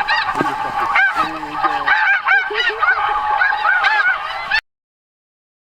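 A flock of snow geese calling, many short honks overlapping. The sound cuts off abruptly about four and a half seconds in.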